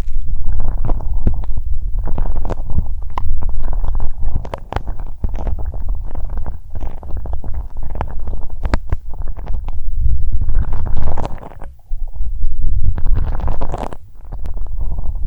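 Close-up rubbing and scratching right on the microphone, giving a loud deep rumble with rustling and scattered sharp clicks. It comes in long swells with brief lulls near the end.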